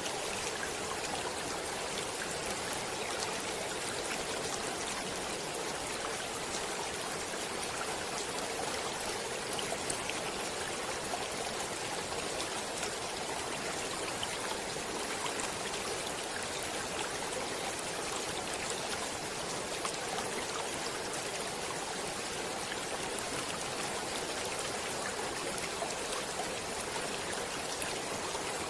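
Stream water flowing steadily: a continuous rush peppered with small splashes and trickles.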